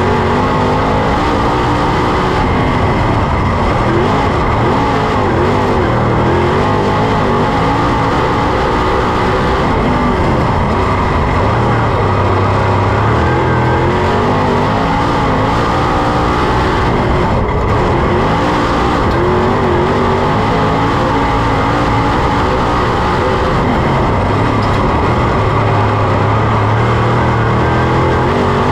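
Ford 422 cubic-inch V8 of a dirt Super Late Model race car running hard on track, heard from on board. It runs loud and unbroken, its pitch rising and falling over and over as the throttle goes on and off.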